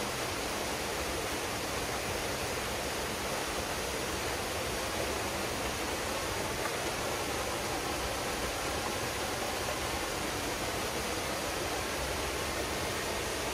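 Waterfall pouring steadily into a pool, a constant, even rush of falling water.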